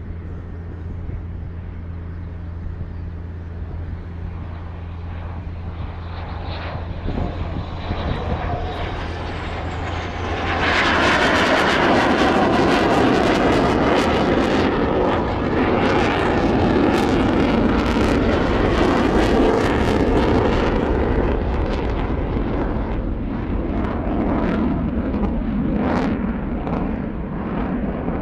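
Military jet engines passing overhead. The jet noise jumps sharply about ten seconds in to a loud, rushing roar that stays loud for the rest of the time, over a steady low hum.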